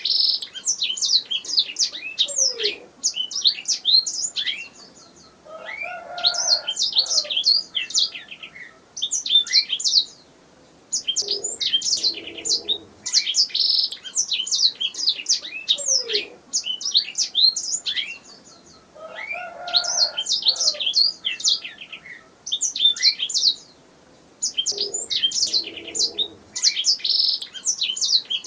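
Domestic canary singing: fast high chirps and rolling trills in phrases of a few seconds, broken by short pauses, with fainter lower notes now and then.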